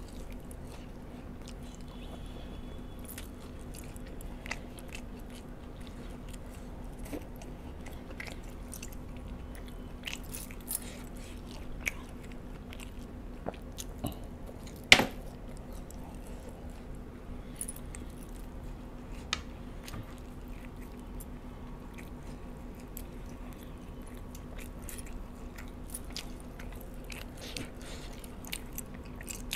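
Close-up chewing and biting of spicy fried chicken wings: small scattered mouth clicks and smacks over a steady low hum, with one sharper, louder click about halfway through.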